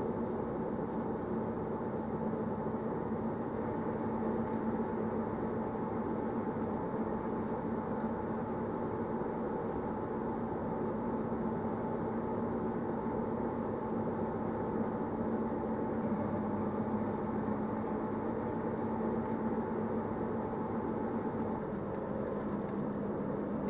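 Electric train of the Berner Oberland Bahn running steadily, heard from inside the carriage: an even running noise with a constant hum.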